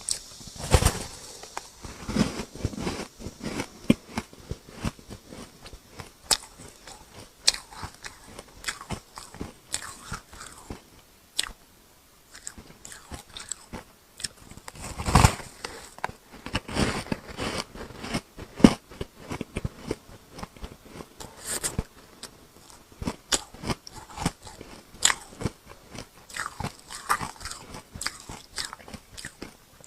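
Close-miked biting and chewing of frosty ice chunks dusted with matcha powder: irregular sharp cracks and crunches throughout, with the loudest bites about a second in, about halfway through, and about two-thirds of the way through.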